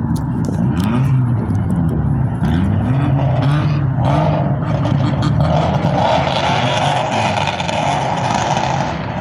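Car engines running and revving, with repeated short rises and falls in pitch over the first few seconds. A steadier droning joins about four seconds in.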